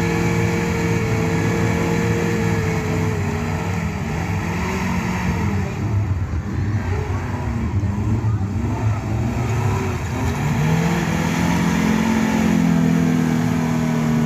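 Off-road vehicle engines running, their pitch wavering up and down as they rev in the middle, then settling to a steadier, slightly higher note near the end.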